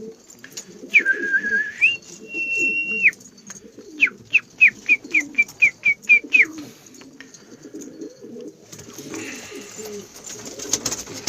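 A flock of domestic pigeons cooing steadily. About a second in, a high whistled note is held in two steps, and a few seconds in comes a quick run of about ten short falling whistled chirps.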